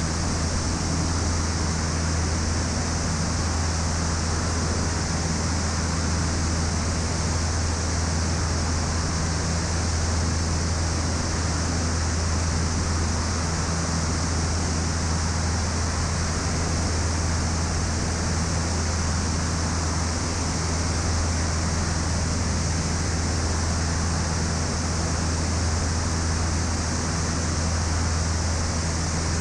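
Steady drone of a Piper PA-34 Seneca's twin piston engines and propellers in flight, heard from inside the cabin: a constant low hum with an even hiss over it.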